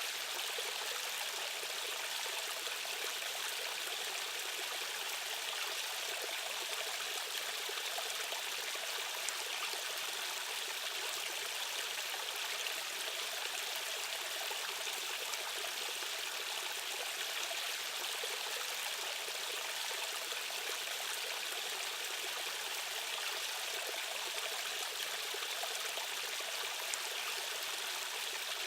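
Steady rushing of a stream's current, an even wash of water noise with no breaks.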